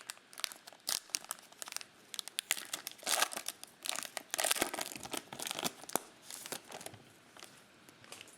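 A trading-card pack's plastic wrapper being torn open and crinkled by hand, with dense crackling, loudest in the middle.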